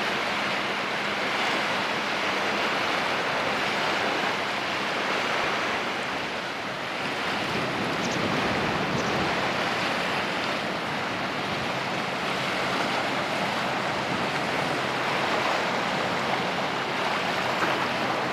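Steady rush of wind and water along the shore, with a faint low, steady hum underneath.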